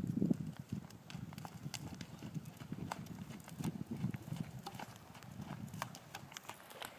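A horse's hooves clip-clopping at a trot, a run of repeated low hoofbeats with light sharp clicks among them.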